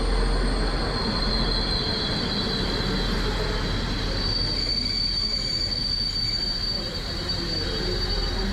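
Train running on rails, with a high, steady wheel squeal over the rumble of the wheels. The squeal is loudest in the middle.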